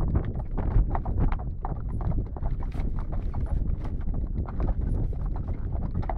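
Hooves of a horse-drawn carriage team clip-clopping in a quick, continuous run of hoofbeats, over a steady low rumble.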